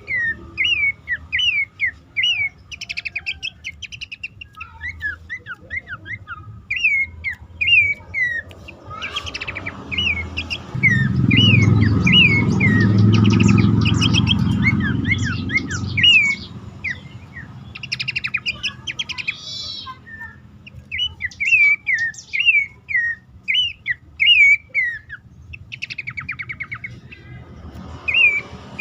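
Abbott's babbler (pelanduk semak) calling: a string of short whistled notes, each rising then falling, about two a second, mixed with quick chattering trills. A low rumble runs under the calls for several seconds in the middle.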